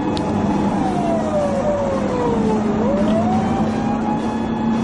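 Police car siren wailing: the tone holds high, slides slowly down in pitch and climbs quickly back up about three seconds in. Underneath is a steady engine and road hum.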